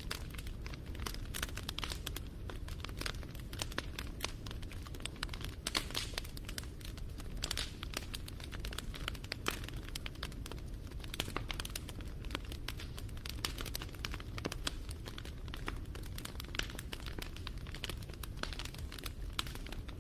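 Wood campfire crackling, with an irregular stream of sharp snaps over a low steady rumble of the flames.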